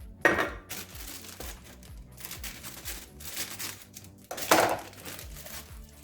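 Plastic bag of boxed cake mix crinkling and tearing as it is opened and emptied into a mixing bowl, with two louder rustles, one just after the start and one at about four and a half seconds.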